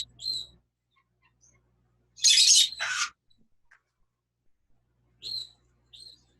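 Pet parrot calling: two loud screeches back to back about two seconds in, then two short, quieter calls near the end.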